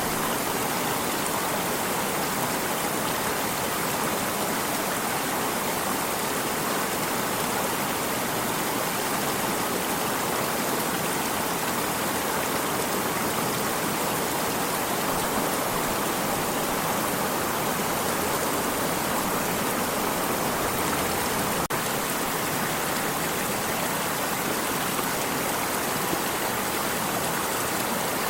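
Water stream flowing, a steady even rushing and babbling that does not change.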